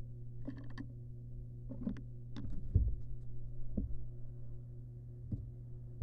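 Scuffs, scrapes and a few dull knocks from barn owl nestlings moving about inside a nest box, over a steady electrical hum.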